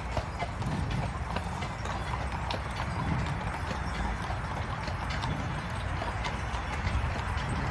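Horse-drawn cart: the horse's hooves clip-clop in a quick run of knocks over a steady low rumble.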